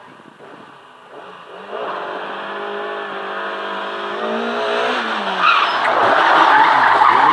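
Rally car approaching and passing at speed. Its engine note holds steady, then rises as it accelerates, with loud tyre noise at its closest, about five to seven seconds in.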